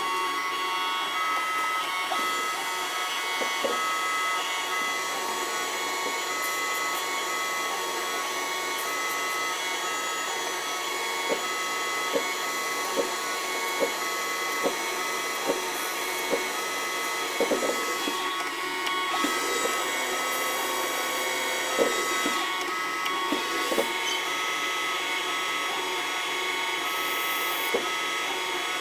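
CNC turning lathe running with a steady whine and several held tones. Partway through, a run of sharp ticks comes about 0.8 s apart, followed by a few scattered knocks.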